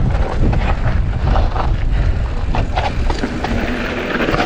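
Strong wind buffeting the microphone in a loud, uneven low rumble, with the clicks and rattles of a mountain bike riding over a dirt trail.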